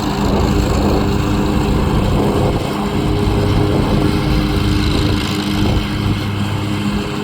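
A loud, steady engine drone with a low, even hum, wavering only slightly in level.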